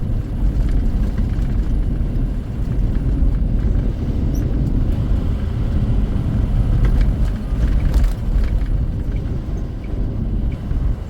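Tractor-trailer cab drone: steady low engine and road rumble while driving. Near the end, faint regular ticking about twice a second, the turn signal before a left turn.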